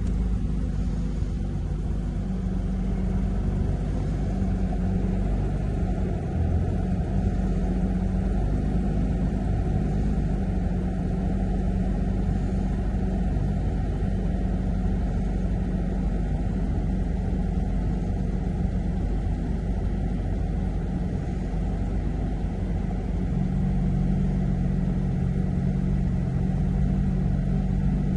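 Porsche 911 GT3 RS's naturally aspirated flat-six idling steadily just after a cold start. The note is a steady low hum that grows a little stronger near the end.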